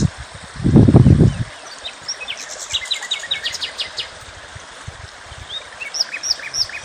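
Small birds chirping and trilling over a steady outdoor hiss, with quick runs of high notes and a few short down-curving whistles near the end. About a second in, a brief low rumble is the loudest sound.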